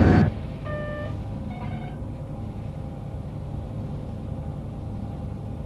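Cartoon sound effect of space fleet engines: a steady low rumble, with two short electronic tones at different pitches about a second in. A louder noisy sound cuts off just at the start.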